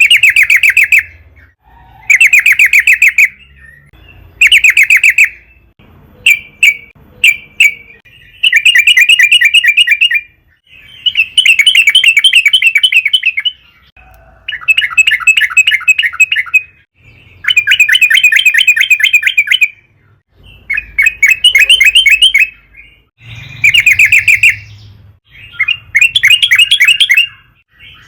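Yellow-vented bulbul in full, energetic song: repeated bubbly, chattering phrases of one to three seconds each with short pauses between. A few short single notes come about six seconds in.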